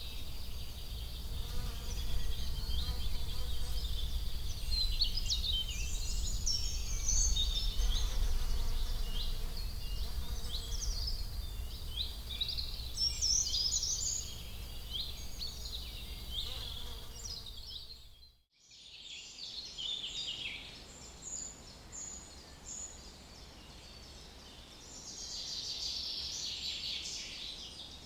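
Many small birds chirping and singing in quick, varied phrases, over a steady low rumble. The sound cuts out sharply about two-thirds of the way through, and then the birdsong goes on without the rumble.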